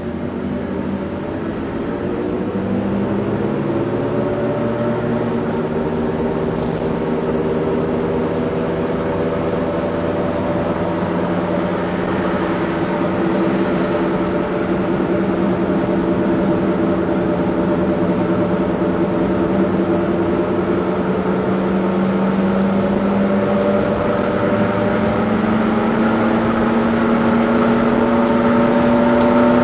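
Vehicle engine under acceleration: a steady pitched drone whose pitch and loudness climb slowly and evenly.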